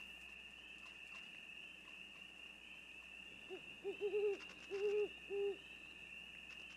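An owl hooting, a short run of four notes starting about halfway through, over a steady high chirring of night insects.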